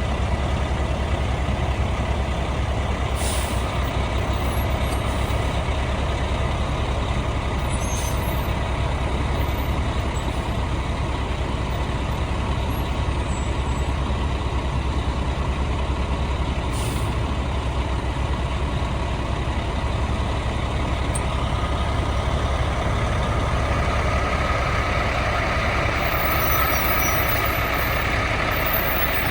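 Diesel engine of a 2007 Sterling LT9500 digger derrick truck idling steadily.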